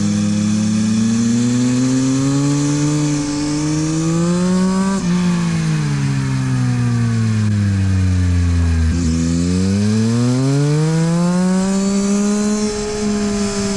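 Yamaha MT-09 SP's three-cylinder engine through a LeoVince exhaust, ridden hard on track. The revs climb for about five seconds, fall away for about four as the bike slows, then climb again after a short break and hold fairly steady near the end.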